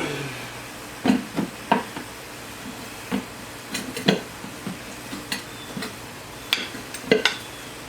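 Irregular clinks and knocks of tools and hands working a new go-kart tire onto its wheel rim.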